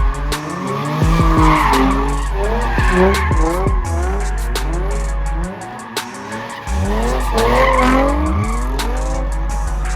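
Car engines revving up and down with tires squealing, typical of cars doing donuts at a street takeover, over loud music with heavy bass. The bass drops out for about a second around the middle.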